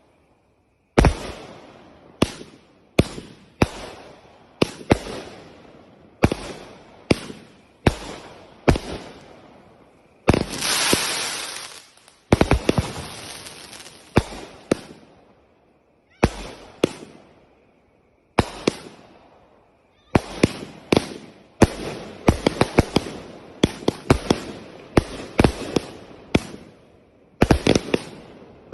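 Consumer aerial fireworks firing a rapid string of sharp bangs, each shot followed by a short fading crackle. A dense hissing burst comes about ten seconds in, and there are brief pauses between volleys.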